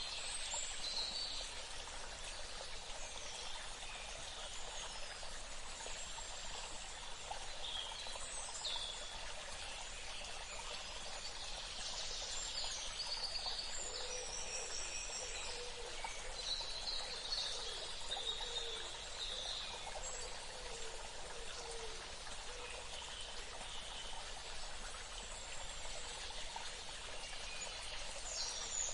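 Outdoor nature ambience: steady running water, like a stream, with birds calling over it now and then. Near the middle a bird gives a run of short, quickly repeated high notes.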